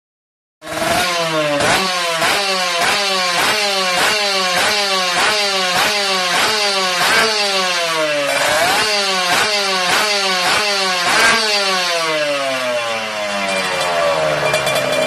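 Kawasaki Ninja 150 RR two-stroke engine breathing through a Creampie aftermarket exhaust, starting half a second in and revved in quick repeated throttle blips, about one and a half a second. The pitch falls after each blip, one longer rev comes about two thirds of the way through, and the engine settles back toward idle near the end.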